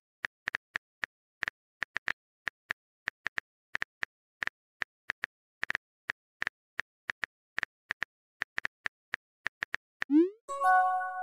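Simulated phone keyboard typing clicks, short and irregular at about three or four a second, then about ten seconds in a quick rising pop and a short chime: a text message being sent.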